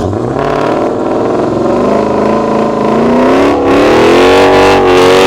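Car engine revving loudly, its pitch climbing steadily over about three seconds and then held high.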